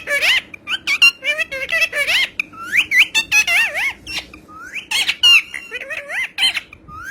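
Pet talking parrot chattering and squawking: a rapid run of short, high, warbling whistled calls and sharp clicks, with bits that sound like speech.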